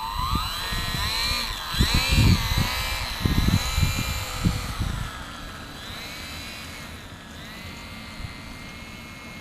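Electric motor and propeller of a HobbyZone Carbon Cub S2 RC airplane whining, its pitch rising and falling with the throttle, then holding a steady tone for the last couple of seconds. Wind rumbles on the microphone during the first half.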